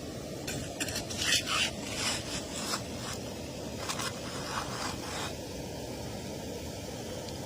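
A run of short, irregular scraping strokes, a tool or hand scraping over rock and gravel while searching for gold, lasting about five seconds, over a steady low rush that continues alone after the scraping stops.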